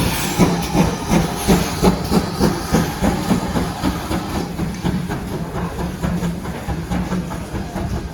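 Steam locomotive working, with steady steam hiss and regular chuffs about three a second that grow weaker after a few seconds.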